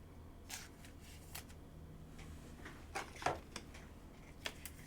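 Trading cards being handled and slid through a pack: a few faint, short card rustles and taps, with a small cluster about three seconds in.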